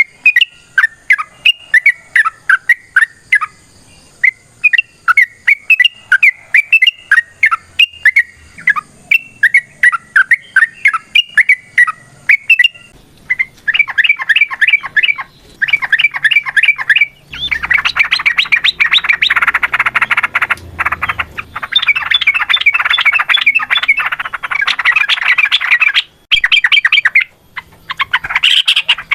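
Yellow-vented bulbul singing: quick, bubbly chirping phrases. About halfway through they give way to a long, dense run of rapid chattering, the fast 'ropel' song.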